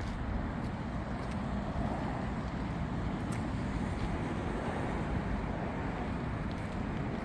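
Steady road and traffic noise, a even rumbling hiss with no distinct events.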